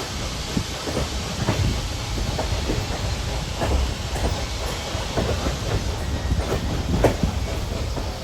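Excursion train rolling along the track: a steady low rumble with irregular clacks and knocks from the wheels and cars.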